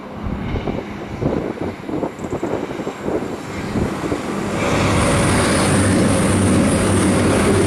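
CrossCountry Class 221 Voyager diesel multiple unit approaching and passing under the bridge. Its underfloor diesel engines drone as it comes in, and the sound swells about halfway through into a steady hum with a high whine. Before that, wind gusts buffet the microphone.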